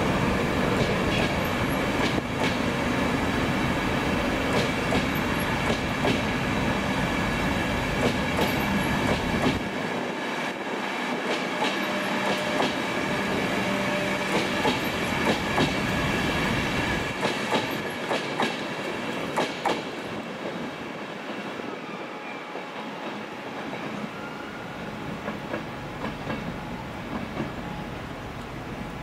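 InterCity 225 train of Mark 4 coaches rolling past, a steady rumble of wheels on rail with irregular clicks and clatter as the wheels cross rail joints and points. The noise dies away over the last several seconds.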